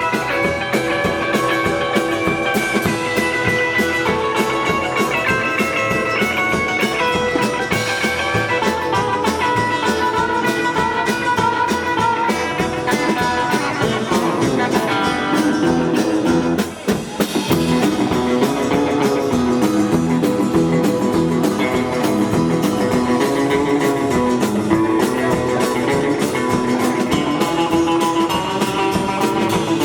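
Rockabilly band playing live: electric guitar and drums. A brief drop in loudness comes a little past halfway.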